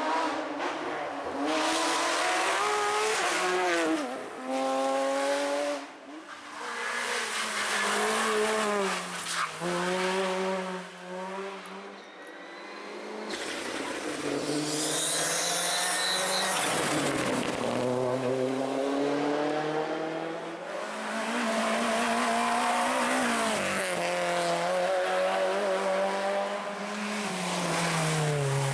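Rally cars at full throttle, engines revving hard through the gears. The pitch climbs and then drops at each shift, over several passes. About halfway there is a high squeal, likely tyres.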